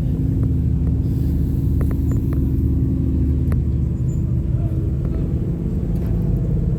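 A car engine running steadily with a deep rumble and a held engine tone.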